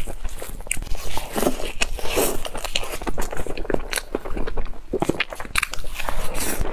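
Close-miked chewing and biting of fried cloud bread filled with red bean paste: irregular crunchy clicks and soft wet mouth sounds, with a fresh bite near the end.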